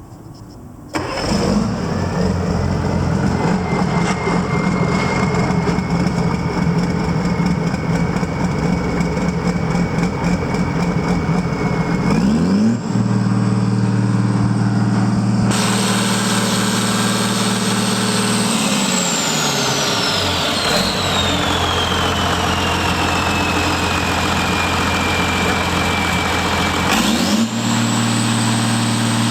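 John Deere 6068TF150 six-cylinder turbo diesel starting about a second in and idling with a high turbo whine. It is run up to high speed a little before halfway, drops back to idle about two-thirds through, and is run up again near the end.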